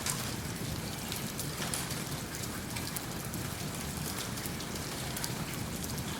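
Steady rain falling, an even hiss over which a wood fire in a fireplace crackles with many small sharp ticks scattered throughout.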